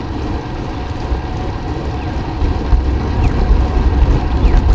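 Wind rushing over the microphone of a camera on a moving bicycle, a heavy gusty rumble, with a steady road and tyre hiss beneath. A few faint, short, falling high chirps sound over it.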